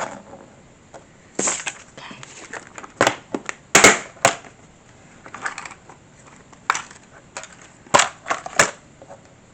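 Sharp, irregular clicks and knocks of small plastic model parts and tools being handled on a work surface, with a few short rustles between them, as a thin tube is worked onto a hydraulic coupling of a scale motorcycle model.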